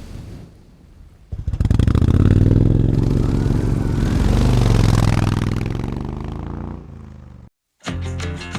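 Motorcycle engine running loud from about a second in, its pitch rising and falling as it revs, then fading away. Near the end it cuts off abruptly and rock music starts.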